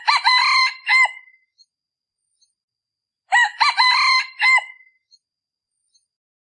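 A male decoy junglefowl rooster crowing twice, a few seconds apart. Each crow is a short, clipped cock-a-doodle of a few quick notes ending in a brief drawn-out note. This is the call used to lure wild junglefowl.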